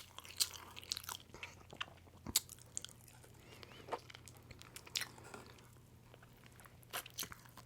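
Close-miked chewing of pizza: scattered soft, wet mouth clicks and smacks, a few sharper than the rest, over a faint steady low hum.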